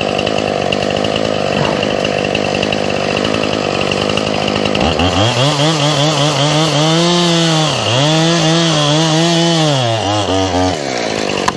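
Two-stroke chainsaw cutting wood: about five seconds in, its engine note comes up strongly and sags under load, dips sharply once near eight seconds, and wavers before easing off near the end.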